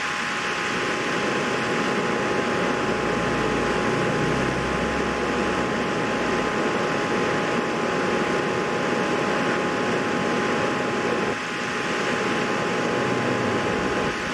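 Steady rushing air noise with a faint steady hum, of the kind a fan or blower makes; it dips briefly about eleven seconds in.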